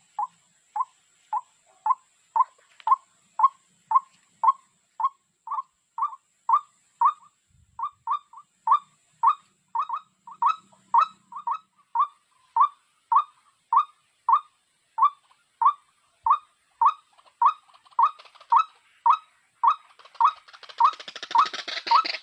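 A bird call: one short, high note repeated evenly about twice a second. A rustling noise builds up behind it near the end.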